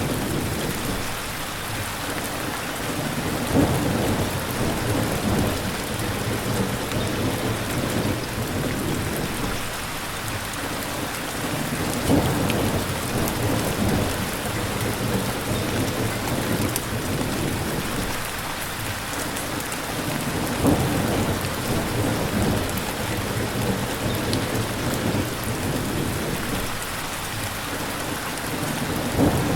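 Steady heavy rain with low rumbles of thunder swelling and fading. A short louder peak stands out about every eight and a half seconds, four times in all.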